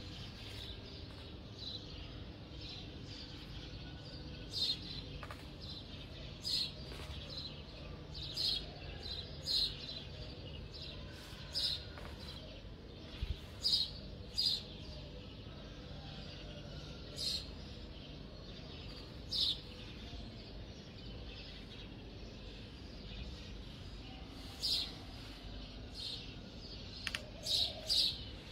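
Small bird chirping, short single or paired chirps every second or two, over a low steady hum.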